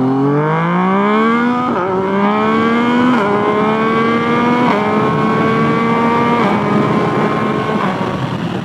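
Yamaha FZ-09 (MT-09) inline-three through its aftermarket full exhaust, accelerating hard up through the gears. The engine note climbs steadily and dips briefly at each of about five quick upshifts.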